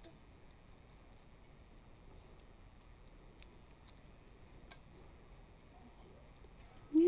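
Faint, scattered plastic clicks and taps from a toy bus being moved across a toy bridge, a few louder ones in the middle, over a steady faint hiss.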